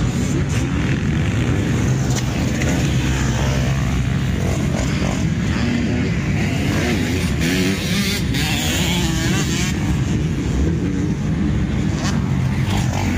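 Several motocross bikes' engines running and revving together, their pitch rising and falling as the bikes ride the track.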